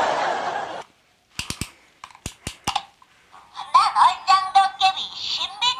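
Several sharp plastic clicks from a Ghostball X toy and its chip parts being handled, in two quick groups. Then, from about three and a half seconds in, the toy's electronic sound effects and recorded voice play.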